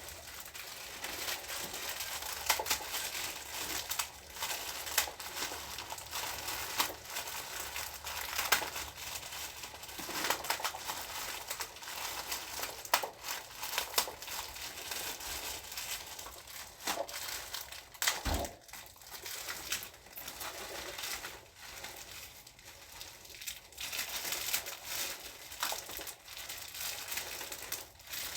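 Plastic instant-noodle packaging crinkling and dry noodles crunching as they are handled and broken, in a dense, irregular crackle, with a single sharp knock past the middle.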